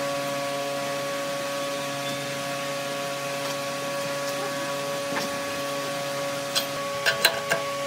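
Workshop machine's electric motor running with a steady hum at several fixed pitches. A few sharp clicks come close together about a second and a half before the end.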